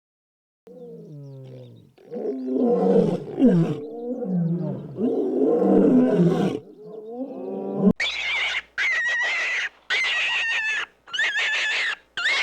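Big cat roaring and growling in deep, rough calls. About eight seconds in it cuts to a different animal giving a run of short, high, raspy calls, about one a second.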